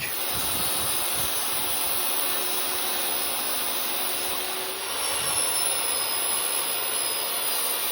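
A power tool running steadily with an even hissing noise, cutting the 16 gauge sheet steel for the toolbox's top and bottom.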